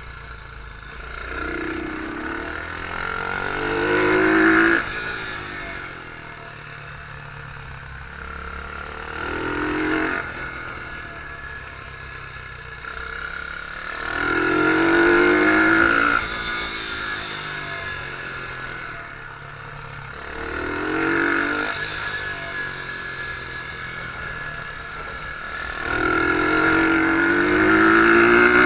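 Beta R150 pit bike engine, heard from on board, revving up in rising pulls under acceleration and dropping back when the throttle closes, about five times in a row.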